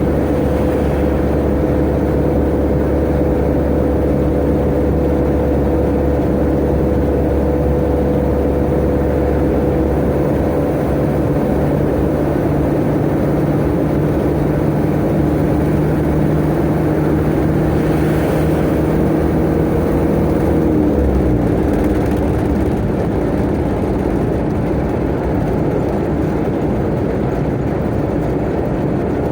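Tata Ace mini truck's turbo engine running steadily at speed under road and wind noise. About two-thirds of the way through, the engine note drops in pitch and fades, while the road noise goes on.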